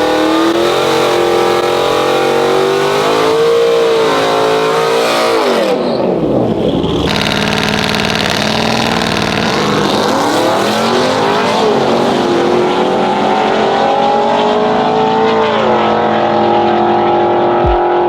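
Pickup truck engines revving and accelerating hard. The pitch dips and climbs again, rises steadily for several seconds, then drops once in a gear change and climbs again.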